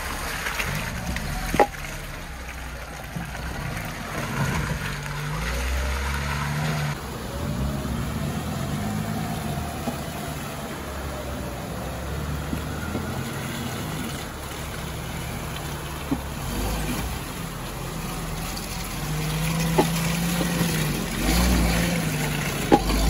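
Lada Niva engine pulling slowly off-road, its revs rising and falling, with a few sharp knocks.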